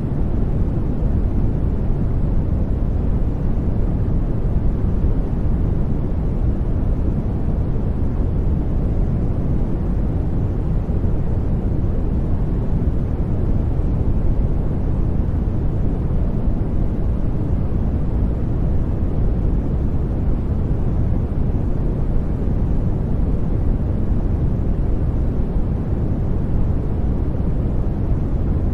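Steady sleep white-noise track: an even, unchanging hiss with most of its weight deep in the low end, like a soft rumble.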